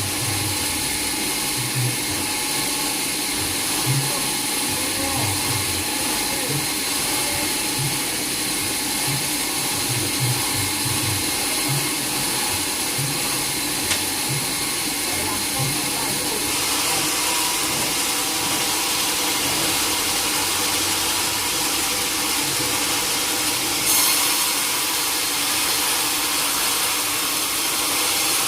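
Sawmill saw running steadily with a loud hiss and a few steady tones. The sound grows fuller about two-thirds of the way through, with a brief louder surge near the end.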